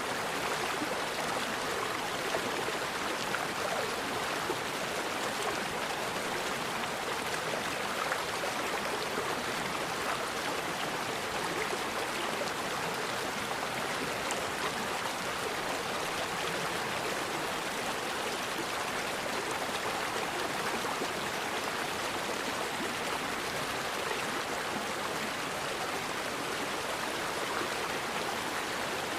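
A forest river flowing, with a steady, unbroken rush of running water.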